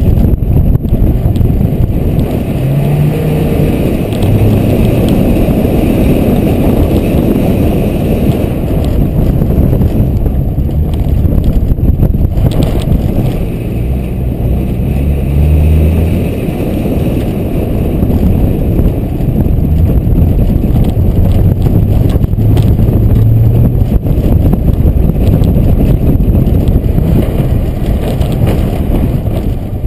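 Car engine revving up and down as the car is driven hard through an autocross course, heard from a camera mounted on the outside of the car, with a loud steady rush of wind and tyre noise over it.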